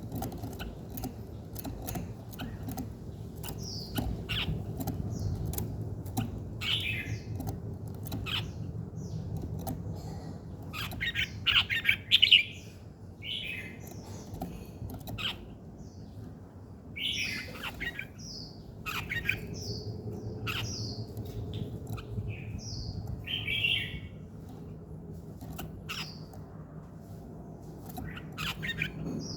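Birds singing in short chirps and calls scattered throughout, with a burst of louder calls about eleven seconds in. A low steady hum runs beneath.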